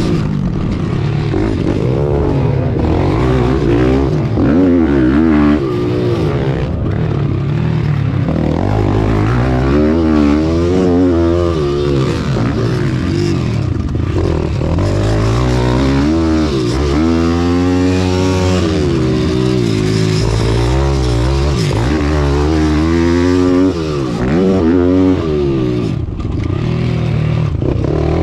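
Small-displacement pit bike engines at racing revs, the pitch climbing and dropping again and again as the throttle is opened and shut, with more than one bike heard at times.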